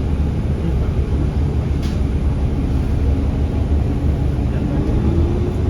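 Ride inside a city bus: steady low engine and road rumble, with a whine that rises in pitch from about four seconds in as the bus picks up speed.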